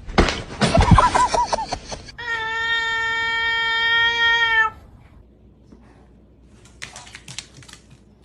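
A domestic cat crying: short wavering cries in the first two seconds, then one long, steady drawn-out call lasting about two and a half seconds. A few faint clicks near the end.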